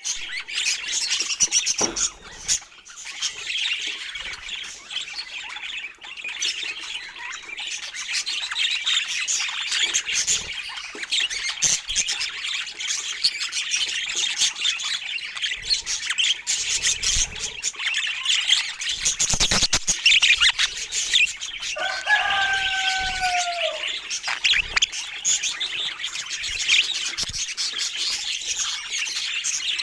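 A group of budgerigars chattering and warbling continuously in dense, overlapping high chirps. A short burst of sharp clicks comes about two-thirds through, followed by one longer, lower call lasting about a second.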